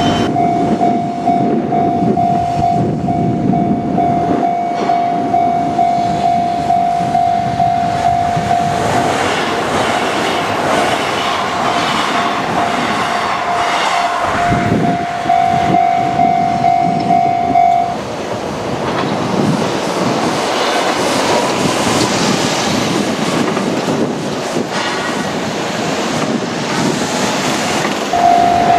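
A Japanese level crossing's electronic warning bell rings in a steady repeating tone while Kintetsu Minami Osaka Line trains pass, their wheels clacking over the rail joints. The bell is lost under the train noise for long stretches in the middle and sounds clearly again near the end.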